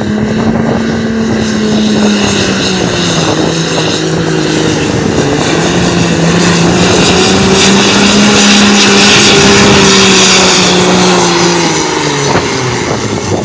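Farm tractor engine running hard at full throttle while pulling the weight sled, one steady strained note under a heavy exhaust noise that grows loudest about two-thirds of the way through. Near the end the engine note drops away as the throttle comes off at the end of the pull.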